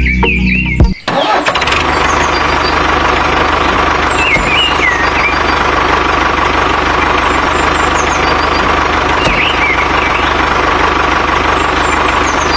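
Steady tractor-style engine running sound that starts abruptly about a second in, with a constant whine over a low hum. Birds chirp briefly a few times over it.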